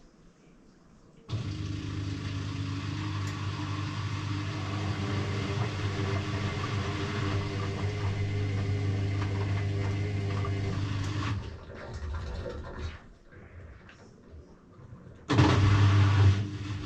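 Electrolux EW6S404WU washing machine's motor turning the drum during the wash, a steady hum that starts about a second in, stops after about ten seconds, and starts again louder near the end: the drum tumbling in one direction, pausing, then tumbling again.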